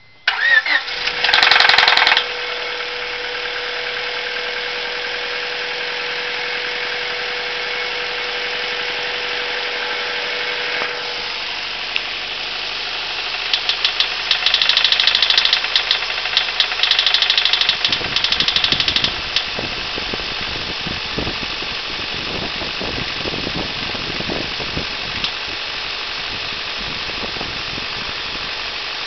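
Honda Civic Si's B16A2 VTEC four-cylinder engine running with a rod knock from chewed-up big-end bearings. It comes in loud about half a second in and is revved briefly, then idles steadily. From about 13 to 19 seconds it is revved again with a rapid knocking, then settles back to idle.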